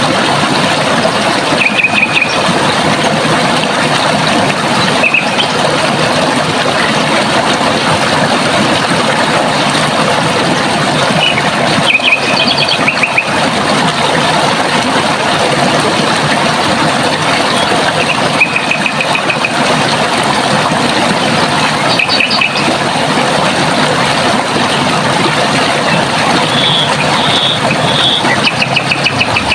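Running water flowing steadily, with a bird giving short, high, rapid trills every few seconds and a longer trill near the end.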